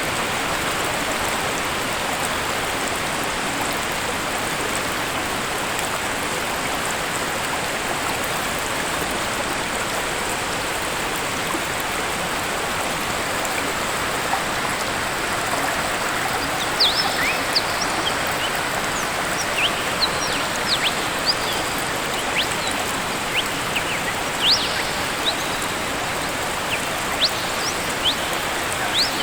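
Steady rush of falling water from a waterfall. From about halfway through, many short, high chirps, most likely birds, sound over it.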